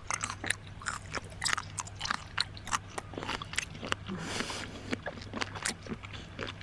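Close-miked mukbang eating: a person biting and chewing seafood, with many quick, sharp crunching and wet clicking sounds at irregular spacing and a brief hiss about four seconds in.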